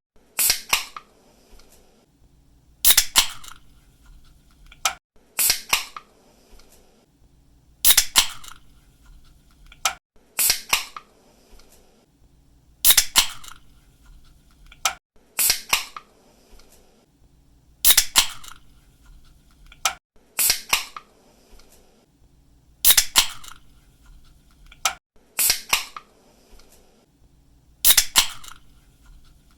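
Aluminium drink can being opened by its pull tab over and over: sharp clicks and cracks as the tab snaps and the seal breaks. The same cluster comes back about every five seconds.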